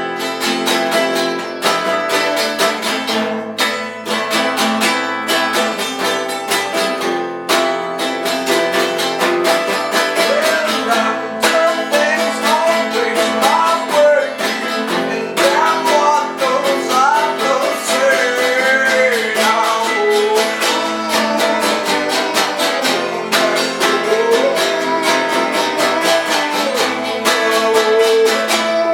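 Indie band playing a song built on strummed acoustic guitar. A wavering melody line, likely a singing voice, comes in about ten seconds in and continues over the guitar.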